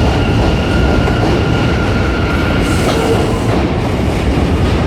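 New York City subway Z train running between stations, heard from inside the car: a steady rumble of the wheels on the track. A faint high whine sits on top until about three and a half seconds in.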